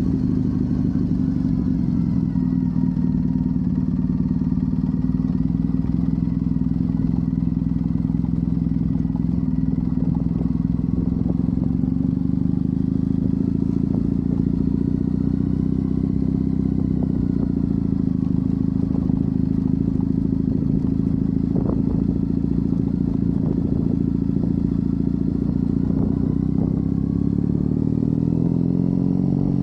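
Triumph Bonneville's parallel-twin engine running steadily while the motorcycle is ridden, with its pitch shifting slightly near the end.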